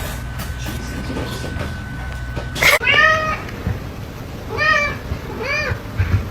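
Domestic cat meowing three times, short rising-then-falling meows about a second apart. The first comes just after a brief loud noise a little past halfway.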